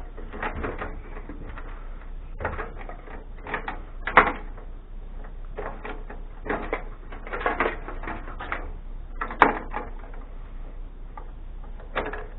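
Cables and plastic connectors being pulled off a desktop computer's motherboard and handled: irregular clicks and rattles, with sharper clacks about four and nine seconds in.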